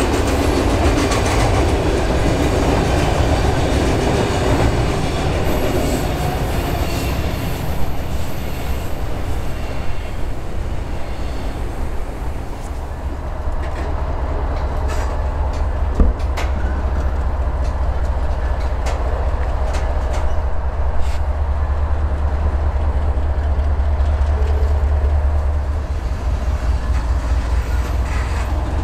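Freight train rolling past, steel wheels clicking over the rail joints, with a steady low drone from its diesel locomotives that grows stronger in the second half. One sharp click stands out about halfway through.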